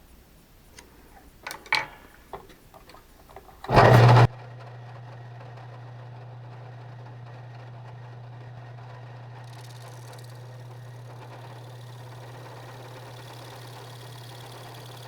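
A few light clicks and knocks, then a short loud burst about four seconds in as a workshop machine's electric motor starts. After that the motor runs with a steady low hum.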